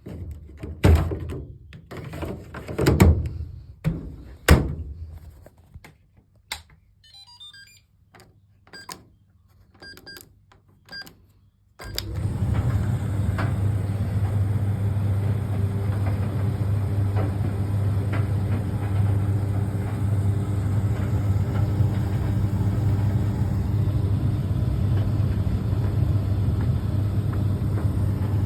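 Several loud thumps and knocks, then a few short electronic beeps from the Fisher & Paykel ED56NZ clothes dryer's controls. About twelve seconds in, the dryer starts suddenly and runs steadily with a low motor hum and its drum turning.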